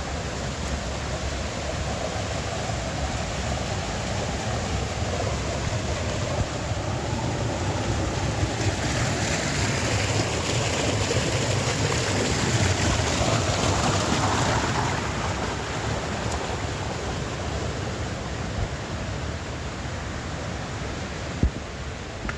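Steady rushing noise of mountain water, swelling for a few seconds in the middle, with low wind rumble on the microphone. There is one sharp knock near the end.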